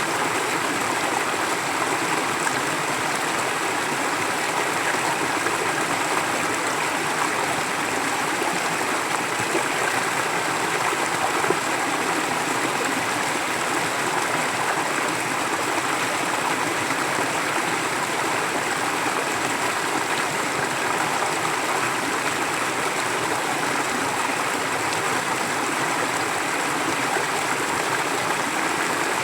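A forest stream flowing: a steady rush and babble of water over stones, unchanging throughout.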